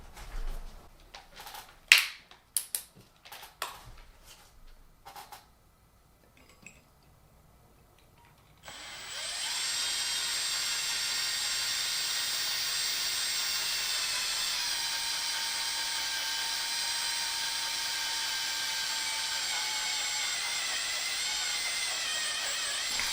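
A few light clicks and knocks of parts being handled, then, about nine seconds in, an electric drill starts and runs steadily for about fourteen seconds, its pitch dipping slightly partway through. The drill is enlarging an undersized retaining-screw hole in a ceiling fan's light kit.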